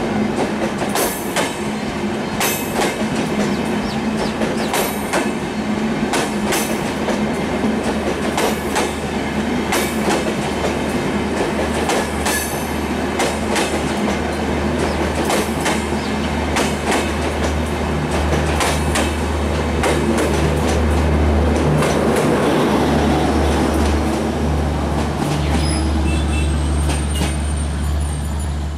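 Chittra Express intercity passenger train moving off and rolling along, its wheels clicking over rail joints roughly once a second over a steady low rumble that grows louder in the second half.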